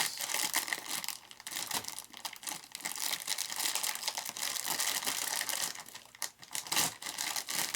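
Plastic packaging and packing tape crinkling and rustling in irregular bursts as taped-down kit parts are handled and unwrapped, with a short lull about six seconds in.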